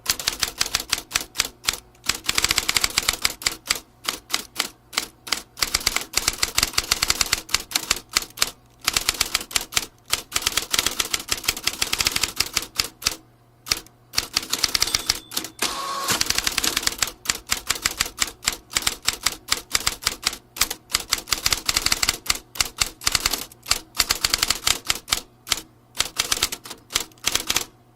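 Vintage manual typewriter being typed on: rapid runs of sharp keystroke clicks, broken by short pauses.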